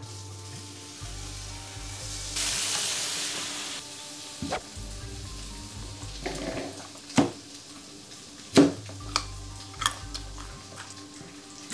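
Slabs of tofu sizzling as they go into a hot cast-iron skillet, a hiss lasting about a second and a half, followed by a few sharp knocks of a knife on a wooden cutting board, which are the loudest sounds. Light background music plays throughout.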